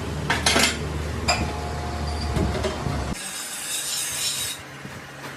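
Mechanical workshop noise: a low steady hum with metallic clinks and a ringing squeal, the hum cutting off suddenly about three seconds in, followed by a high hiss lasting over a second.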